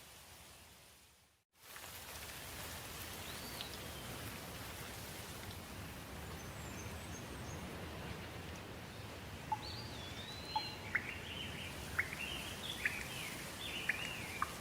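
Steady rain noise that fades out to silence for a moment about a second and a half in, then returns. Birds chirp through the rain, with a run of short, sharp calls in the second half.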